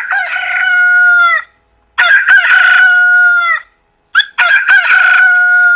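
A rooster crowing three times, each cock-a-doodle-doo about a second and a half long, ending on a long held note.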